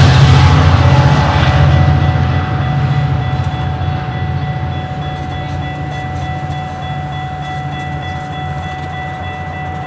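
GO Transit diesel train running through the station without stopping: a loud engine drone that fades over the first few seconds as it moves away, then holds at a lower level with a steady high whine above it.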